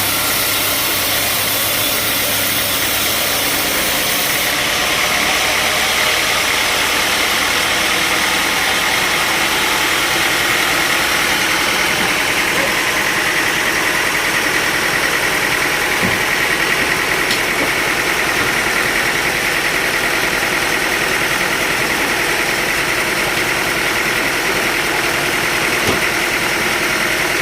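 Sawmill machinery running steadily: a constant mechanical drone, with a steady high whine coming up about five seconds in.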